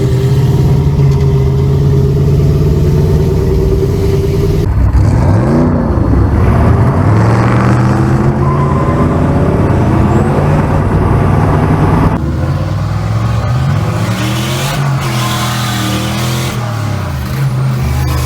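A car engine running loudly and being revved, its pitch rising and falling. The sound changes abruptly twice, as if cut between separate shots.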